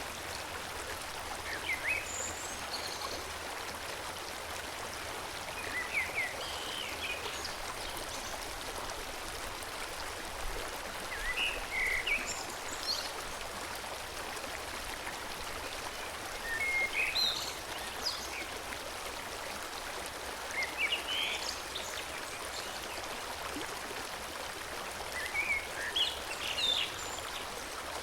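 A forest stream flowing steadily, with a songbird singing short chirping phrases every few seconds over the water.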